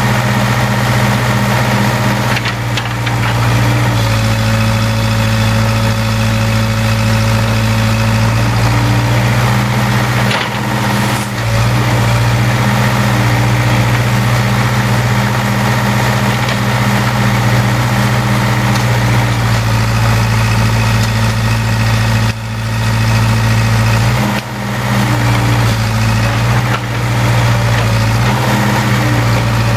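Case 580K backhoe's diesel engine running steadily. Its note shifts a few times as it works, with brief dips in loudness.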